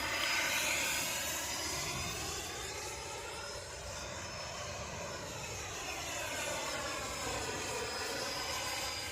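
Electric ducted-fan whine of a Freewing MiG-29 RC jet in flight. The pitch sinks toward the middle and rises again as it passes and turns, fading after a louder pass just before.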